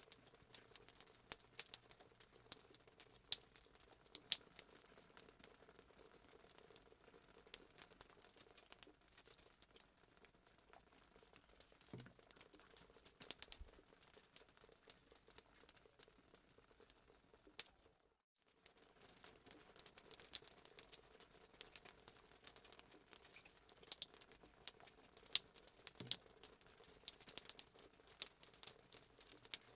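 Fireplace sound effect: a wood fire crackling faintly with many quick, irregular pops. It cuts out for an instant about two-thirds of the way through, then carries on.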